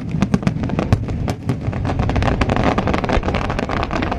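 A rapid barrage of fireworks: many bangs and crackles in quick succession over a continuous rumble.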